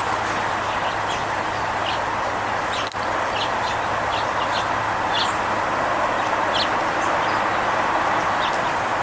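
Small songbirds giving short, high chirps every second or so over a steady, loud rushing background noise.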